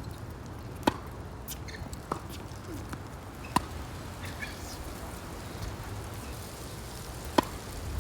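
Tennis ball struck back and forth in a rally: three sharp racket pocks a few seconds apart and a lighter bounce between the first two. Under them runs a steady low rumble of wind on the microphone.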